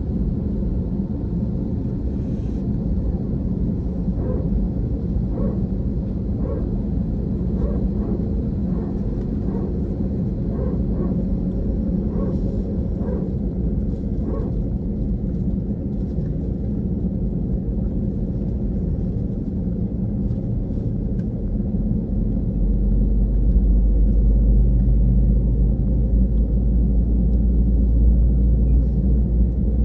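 Cabin noise inside an Airbus airliner before takeoff: a steady low rumble with a held hum of engines and air-conditioning, and a run of faint light knocks in the first half. About three-quarters of the way through, the deep rumble grows louder.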